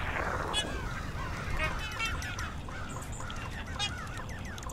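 A flock of birds calling: many short, overlapping arching calls, one after another.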